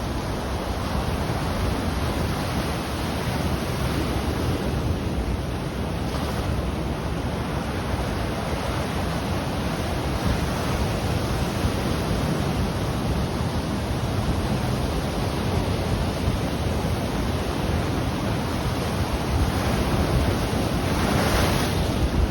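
Ocean waves breaking on the shore in a steady wash, with wind on the microphone; a louder surge of surf comes near the end.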